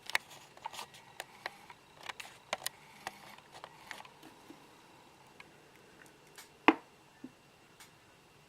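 Light clicks and taps of small objects being handled, many in quick succession at first and then fewer, with one much louder knock about two-thirds of the way through.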